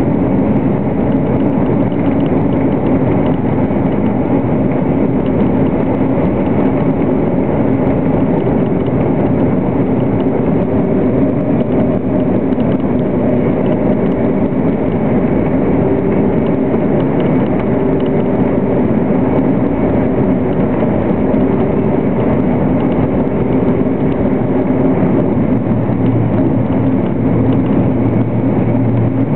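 Steady, loud rumble and rush of a German ICE 3 high-speed train heard from inside the passenger cabin while it runs through a tunnel at around 300 km/h. A deeper hum grows stronger near the end.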